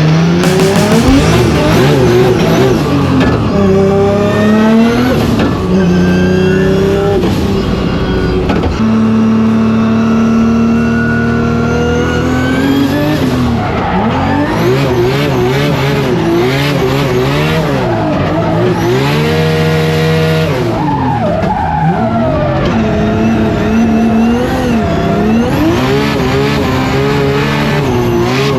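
Nissan Skyline R32's billet RB28 straight-six being driven hard while drifting: the revs climb and fall again and again, held steady for a few seconds about a third of the way in, with tyre squeal throughout.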